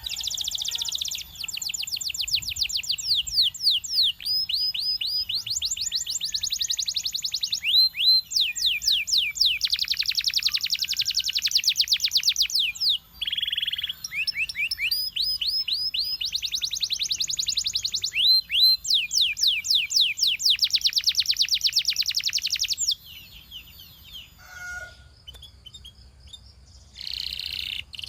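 Belgian singing canary singing: long, fast trills of rapidly repeated high notes and rolling phrases. It goes much quieter about 23 seconds in and starts singing again near the end.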